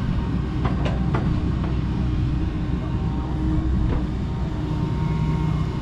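Kobelco SK85 MSR excavator's diesel engine running steadily as it works, with a few short sharp knocks about a second in and another near four seconds.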